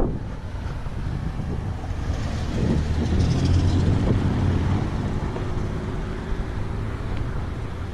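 Street traffic: a motor vehicle's low engine drone swells about two seconds in and fades after about five seconds, over a steady road rumble.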